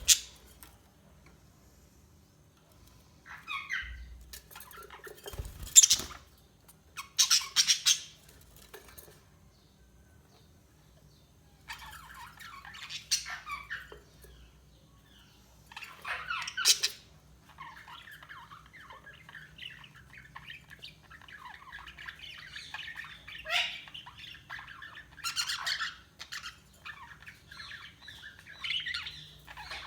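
Budgies chirping and squawking in short loud bursts with quiet pauses between, then keeping up a steady warbling chatter from about halfway through.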